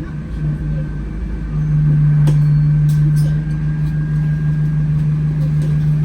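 Cabin sound of an Alexander Dennis Enviro200 single-decker bus under way: a low rumble with a steady droning hum that gets louder about a second and a half in and then holds, with a few light clicks and rattles.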